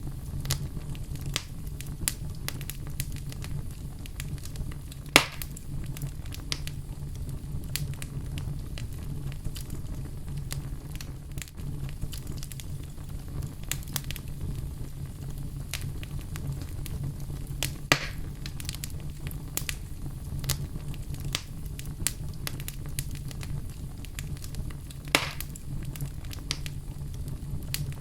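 Fire burning in a fireplace: a steady low rumble of flames with frequent small crackles, and three louder, sharper pops spread through.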